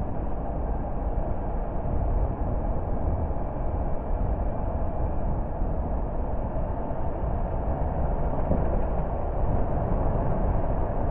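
A car driving at a steady pace: an even low rumble of tyre and engine noise, with no marked changes.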